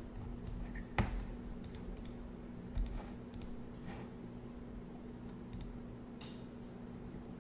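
A few scattered sharp clicks and taps over a steady low hum, the loudest click about a second in.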